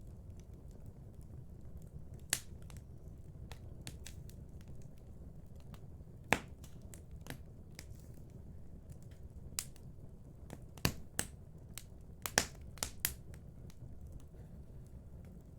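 Wood fire burning in a fireplace: irregular sharp crackles and pops, a few louder snaps among them, over a low steady rumble of the flames.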